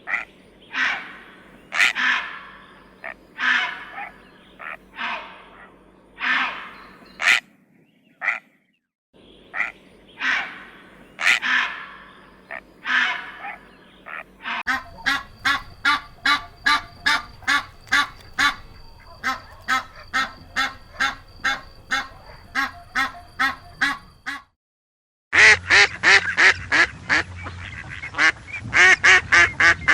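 Waterfowl calling: a run of loud, spaced calls, then about halfway through a faster even series of about two calls a second. After a brief gap, a dense run of overlapping calls.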